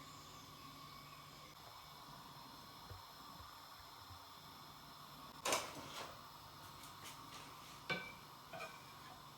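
A few kitchenware clinks and knocks over a steady low hum: one louder knock about halfway through, then several lighter clinks, one with a short ringing tone near the end.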